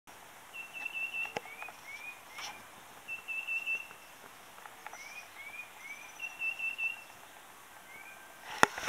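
Birds chirping: a short, rapid trill that comes back three times, alternating with quick rising chirps. A sharp click or knock comes just before the end.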